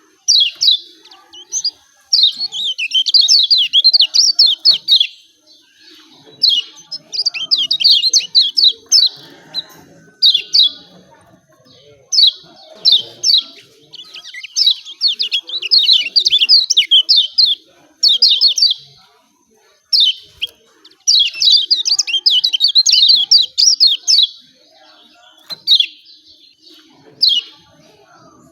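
Kecial kuning white-eye giving its rapid 'ciak ciak' chirping calls: high, fast chirps in repeated bursts of one to three seconds with short pauses between.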